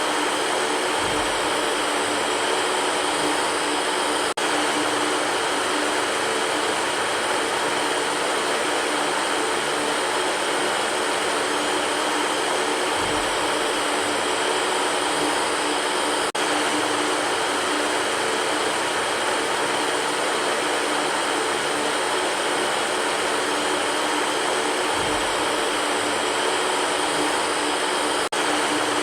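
Electric fan running: a steady, even rushing hum with a few faint tones in it, and a faint low thump about every twelve seconds.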